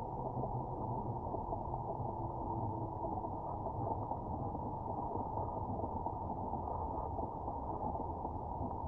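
Shallow river current recorded underwater: a steady, muffled rush of flowing water with no high sounds in it.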